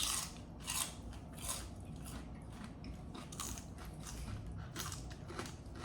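A person chewing food close to the microphone, with irregular small crisp crunches about once or twice a second.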